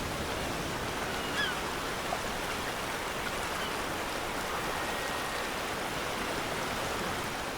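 Steady rushing of a flowing stream, an even wash of water noise, with a few faint short chirps about a second and a half in.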